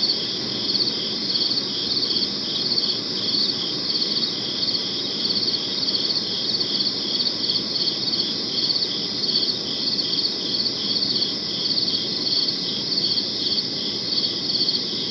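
Crickets chirping in regular, evenly repeated pulsed trills over a steady low background hiss.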